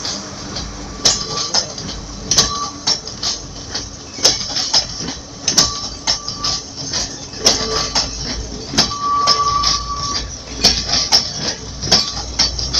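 Sri Lanka Railways Class S12 diesel train running, its wheels clacking irregularly over the rail joints, with several brief high squeals from the wheels.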